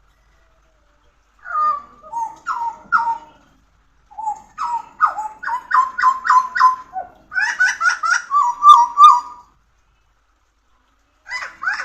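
Pied butcherbird singing: a short phrase of a few notes, then a longer run of quick repeated notes, with another phrase starting near the end.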